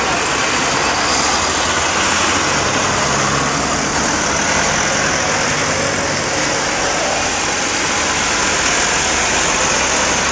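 Tractor engines running steadily as a tractor run passes, with one engine's pitched hum standing out for a couple of seconds early on.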